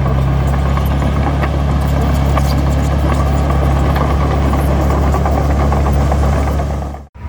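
Heavy diesel machine engine running steadily with a constant mechanical rattle, cutting off abruptly near the end.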